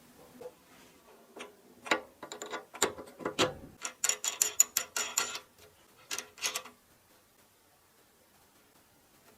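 Rapid run of sharp metallic clicks and clinks, densest between about two and five seconds in, with two more just after six seconds: metal parts being handled and fitted by hand on a bench drill.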